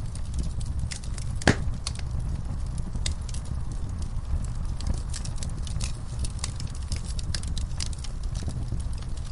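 Wood fire crackling in a fireplace: a steady low rumble of flames with frequent sharp pops, the loudest about one and a half seconds in.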